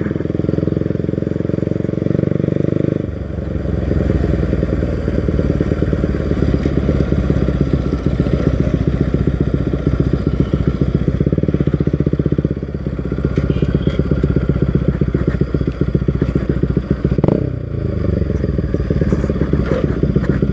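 Bajaj Pulsar NS200 single-cylinder engine running through an aftermarket Akrapovic exhaust while being ridden. About three seconds in, the smooth higher note drops to a lower, pulsing exhaust note, and that note holds to the end.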